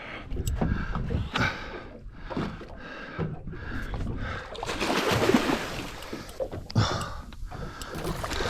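A man breathing hard in short, repeated breaths while he reels in a fish, with a rush of splashing water about five seconds in.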